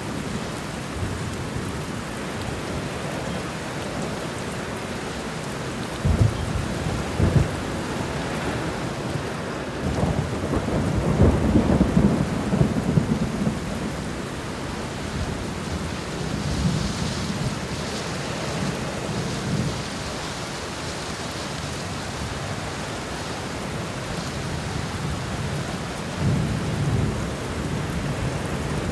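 Thunderstorm: steady rain falling, with thunder rumbling in low swells, the loudest about ten to fourteen seconds in and shorter ones near six seconds and near the end.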